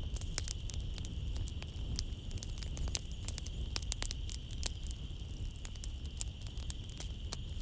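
Wood fire crackling in a fireplace, with many irregular sharp pops and snaps over a low rumble of the flames. A steady high-pitched chorus of night insects runs underneath.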